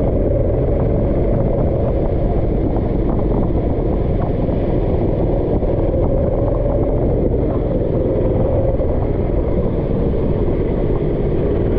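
Go-kart engine running at speed, its pitch drifting slightly up and down, over a steady heavy low rumble.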